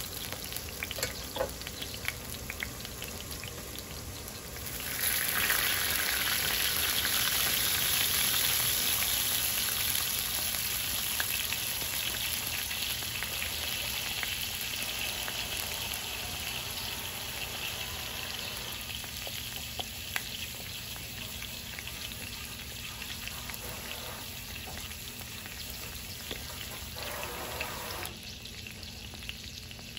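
Food frying in hot oil in a pan, a steady sizzle that jumps louder about five seconds in and then slowly dies down, with small scattered ticks.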